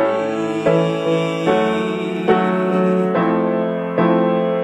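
Piano chords in A, struck one after another about every 0.8 seconds, each left ringing into the next.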